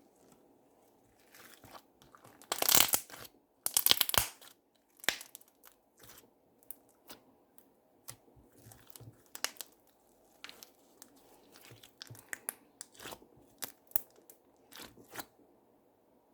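Slime being squeezed, stretched and pressed by hand, giving crackling, popping sounds: two louder crackling bursts about three and four seconds in, then scattered short pops and clicks.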